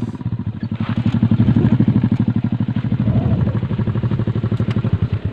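Motorcycle engine running under throttle, with a fast, even pulsing beat. It eases off at the start, picks up again about a second in, and drops away sharply at the end.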